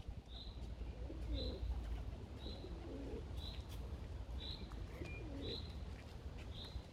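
Wild birds calling: one repeats a short high note about once a second, while a deeper, lower call comes three times, over a low background rumble.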